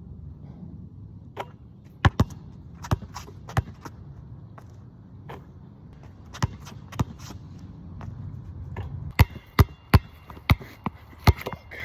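A basketball being dribbled: sharp single bounces at an uneven pace, coming quicker near the end, over a steady low rumble.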